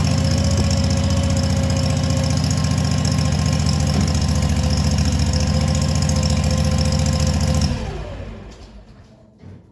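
Ventrac tractor engine running steadily, then switched off nearly eight seconds in, its note falling as it winds down to a stop. A single knock follows near the end.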